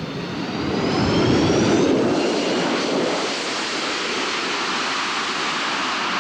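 An aircraft engine passing close in a fly-by. It grows louder to a peak about a second and a half in, its whine drops in pitch as it goes past, and then it fades to a steady rushing noise.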